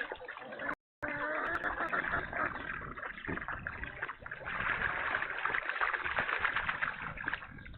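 Water splashing and sloshing, stirred up by farm animals, with a brief total dropout of sound about a second in.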